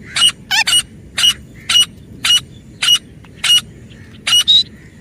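Female grey francolin calling: a run of short, loud calls, about two a second, with a few quick pairs, rising a little higher in pitch near the end.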